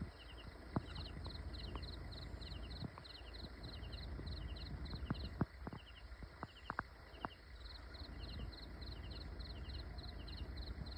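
Insects chirping in short, evenly repeated pulse trains, about two a second. A few sharp clicks come in the middle, over a low rumble.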